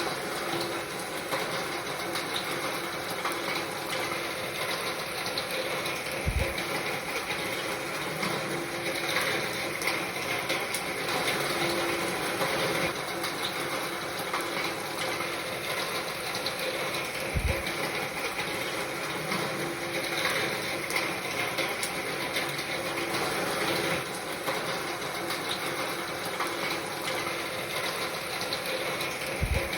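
Steady rain falling, a dense even hiss full of fine drop ticks, with a low thump about every eleven seconds.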